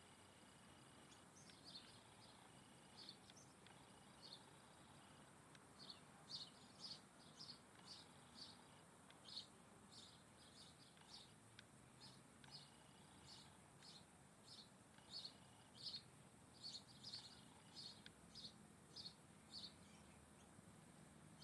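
A bird chirping: short, high chirps, a few at first and then a long run of about two a second, faint.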